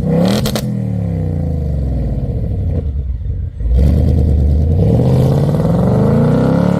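2024 Ford Mustang GT's 5.0-litre V8 revving through its active valve exhaust. A sharp blip near the start drops back toward idle, a short blip comes about halfway, then the revs climb more slowly and fall away near the end.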